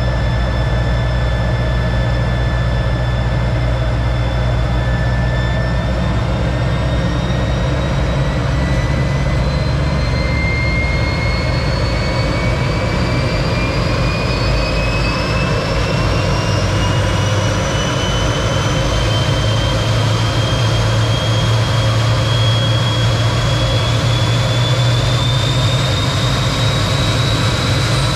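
T-33 jet trainer's turbojet engine running: a steady loud rumble with a turbine whine that climbs slowly and smoothly in pitch throughout, as the engine gradually speeds up.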